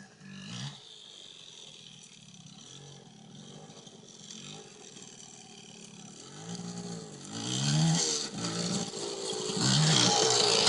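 Dirt bike engine revving up and easing off again and again, faint at first and getting much louder over the last few seconds as the bike comes closer.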